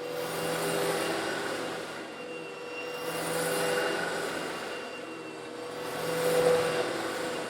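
Eureka vacuum cleaner running steadily while vacuuming up coarse stone granules, its motor hum constant. The rush of air and grit swells and eases about every three seconds.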